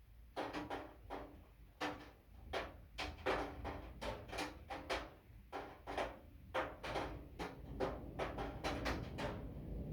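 Storm rain striking a hard, ringing surface close to the microphone: a run of irregular sharp knocks, several a second, over a steady low rumble.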